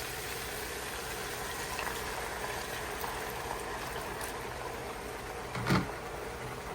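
Duck cooking in a pan, a steady sizzling and bubbling hiss, with a single short thump near the end.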